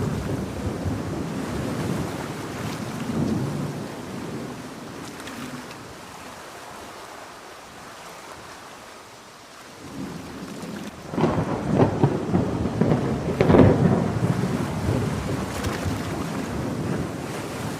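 Steady heavy rain with rolling thunder. The rumble fades toward the middle and swells again from about ten seconds in.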